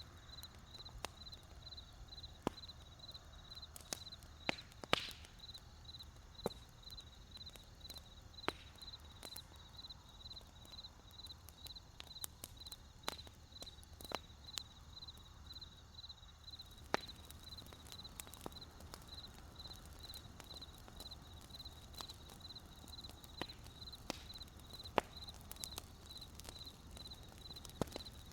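Wood campfire crackling, with irregular sharp pops scattered through, one of the loudest about five seconds in, over crickets chirping in a steady, even pulse.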